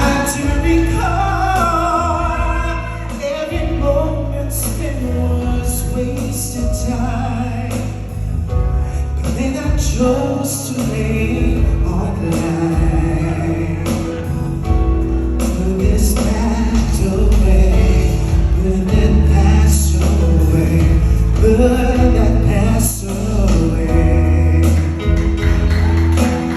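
Love ballad sung by a single vocalist over a full accompaniment with a steady bass line and light percussion.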